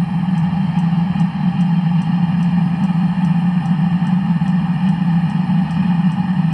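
Land Rover engine running at a steady idle after an engine block repair, with a faint high tick repeating about two to three times a second.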